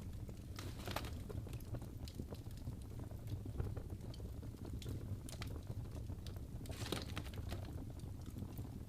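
Wood fire crackling in a fireplace: irregular sharp pops and snaps over a low steady rumble of the flames, with small flurries of pops about a second in and again near seven seconds.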